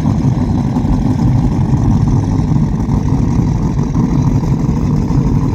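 High-performance powerboat engines idling with a steady, deep rumble.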